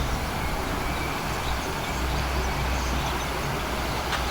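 Wind buffeting the microphone outdoors: a steady low rumble that wavers in strength, over a light hiss.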